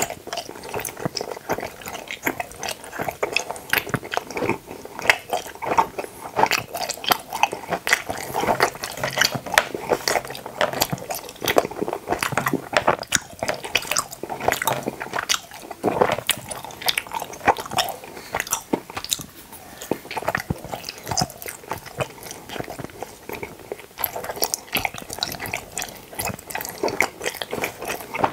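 Close-miked chewing of tooth-shaped gummy jelly: a dense run of small mouth clicks and squishes, thinning out briefly about two-thirds of the way through.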